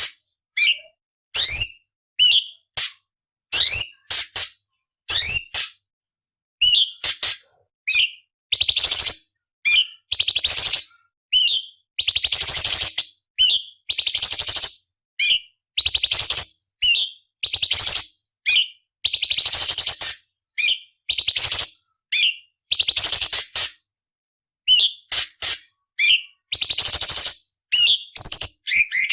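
Cucak cungkok (orange-bellied leafbird) singing a fast run of short phrases: sharp rising whistled notes alternating with harsh, scratchy rasping bursts, each cut off by a brief silence.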